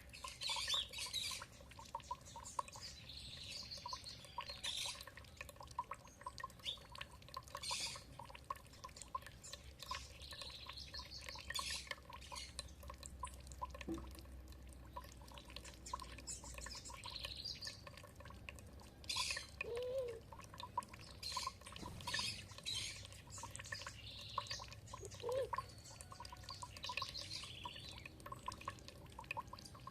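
Songbirds singing short chirping phrases every few seconds over water dripping and trickling steadily.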